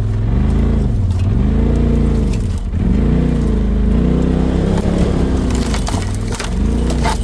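Polaris RZR side-by-side's engine revving up and down several times as it crawls over obstacles, with a few sharp knocks and crunches from the machine hitting them.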